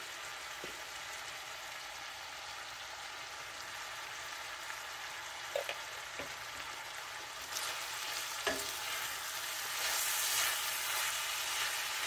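Ground beef and cabbage sizzling in a cast iron skillet as a steady frying hiss, with a few faint ticks. The hiss grows louder in the last few seconds, and near the end a wooden spoon stirs the food in the pan.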